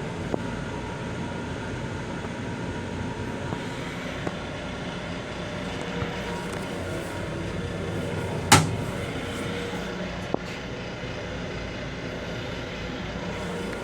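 Steady rumble and hum inside an LIRR M7 electric railcar, with a few light clicks and one sharp knock a little past halfway.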